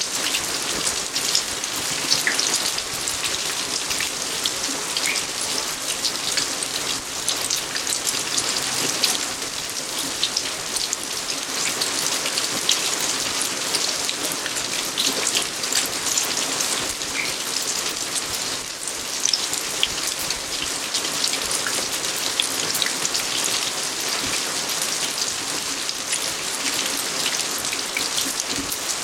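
Steady rain falling on garden surfaces: an even hiss dotted with many separate drop hits, holding at the same strength throughout.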